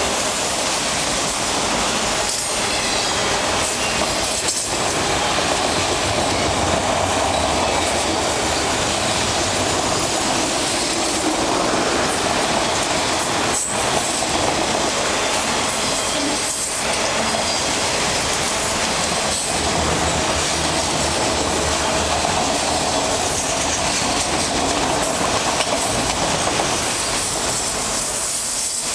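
Long freight train of autorack cars rolling steadily past: continuous wheel-on-rail rumble and clatter, with a steady wheel squeal.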